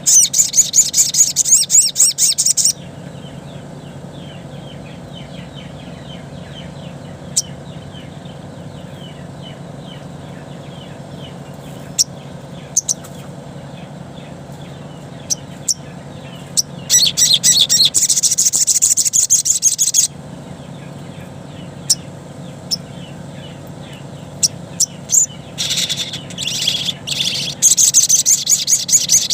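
Sogon (crimson sunbird) singing its wild-type song: three long bursts of rapid, very high-pitched chattering trills with scattered single sharp chips between them, over a steady low hum.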